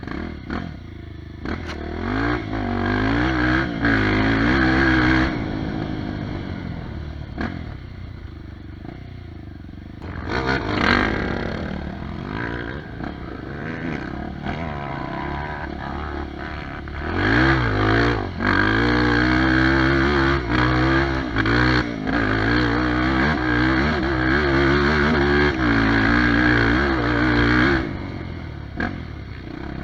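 Off-road trail motorcycle engine revving up and down again and again under load, with knocks and clatter from the bike over rough ground. It is loudest in a stretch early on, briefly near the middle, and through a long spell in the second half, easing off in between.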